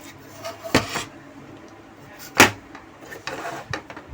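A few sharp knocks and clicks of tools and small parts being handled and set down on a workbench, the loudest about halfway through.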